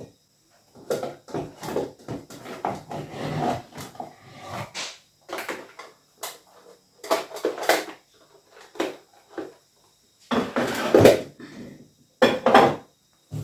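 Dishes and kitchenware clinking and knocking as they are handled and put away: a series of separate clatters with short pauses between them.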